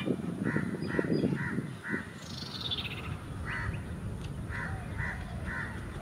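Birds calling: short, harsh, crow-like calls repeated about twice a second, in two runs. A high whistle falls in pitch about two seconds in, and there are some louder low bursts in the first two seconds.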